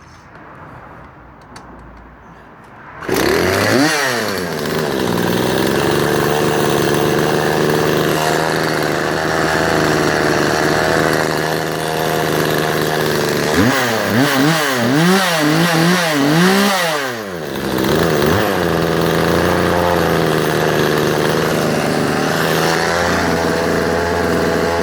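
McCulloch 7-40 two-stroke chainsaw, with bar and chain removed, catching about three seconds in and revving once, then idling steadily. In the middle it gives about five quick throttle blips before settling back to idle.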